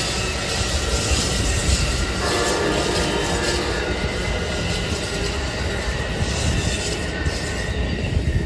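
Train running past on the track: a steady loud rumble of rail cars, with faint wheel squeal from about two seconds in.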